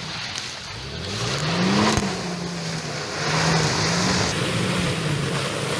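Off-road SUV engine revving: it rises in pitch for about two seconds, drops back, then holds with the revs going up and down under load. A steady rushing noise runs with it and stops about four seconds in.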